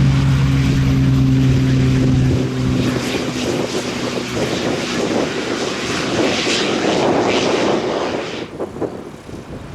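Propeller aircraft engine droning at a steady pitch, fading out about two and a half seconds in, then a rushing noise that drops away near the end.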